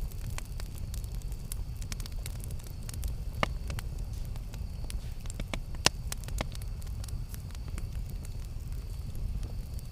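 Campfire burning, with a steady low rumble and scattered sharp crackles and pops from the burning wood, the loudest pops about three and a half and six seconds in.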